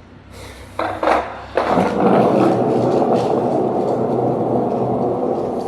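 Two sharp knocks of a skateboard's wooden deck, then its wheels rolling steadily and loudly over pavement.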